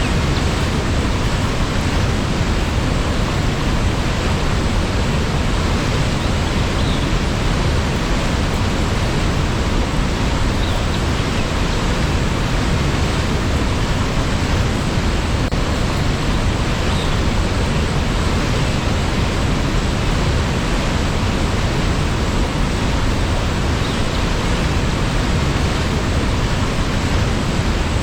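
Waterfall's water rushing in a steady, unbroken noise.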